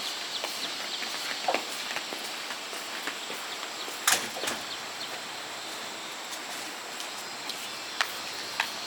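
People walking, their footsteps heard as scattered sharp clicks and scuffs, the loudest about four seconds in, over a steady drone of insects.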